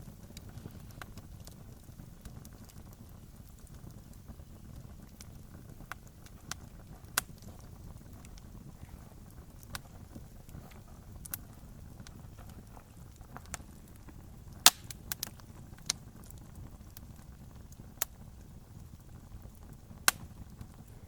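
Wood campfire crackling: irregular sharp pops and snaps, the loudest two about two thirds of the way in and near the end, over a low steady rumble.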